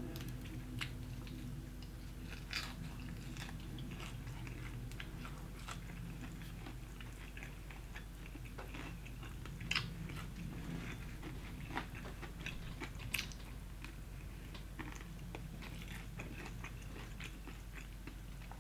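A person chewing and biting fried chicken close to the microphone: faint wet chewing with scattered crunches and mouth clicks, a few louder ones about 2.5, 10 and 13 seconds in.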